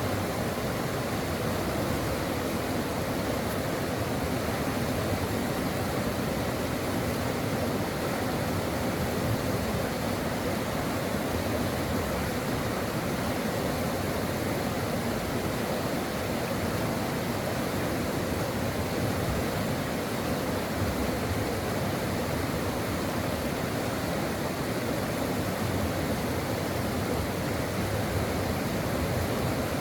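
A stream of running water flowing steadily, an even rushing with no breaks or changes.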